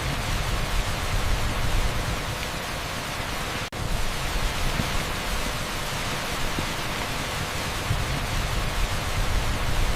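Torrential rain pouring steadily onto an asphalt street: a dense, even hiss with a low rumble underneath, broken once by a split-second dropout a little over a third of the way in.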